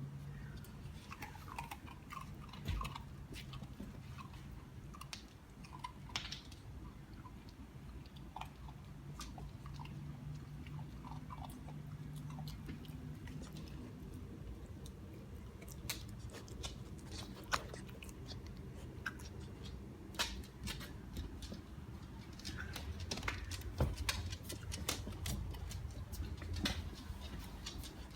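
Pit bull puppy chewing, with many small crunches and clicks, thickest in the second half.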